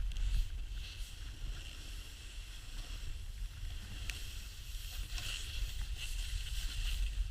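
Snow hissing and scraping steadily under a rider sliding downhill, with a few louder swishes from turns about five seconds in and near the end. Wind rumbles low on the microphone throughout.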